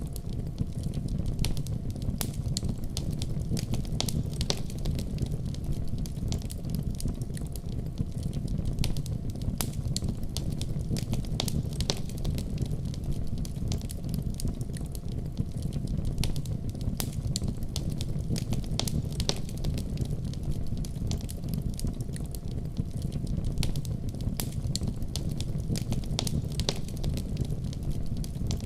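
Wood fire in a fireplace crackling, with frequent sharp crackles over a steady low rumble.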